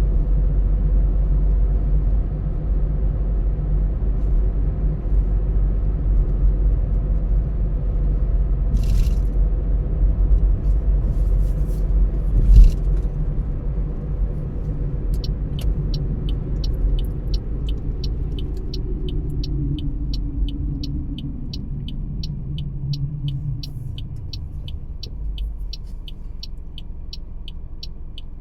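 Car in motion, heard from inside: steady low tyre and road rumble, with a brief knock about halfway. From about halfway a turn-signal indicator ticks about twice a second while the engine note falls and the car slows.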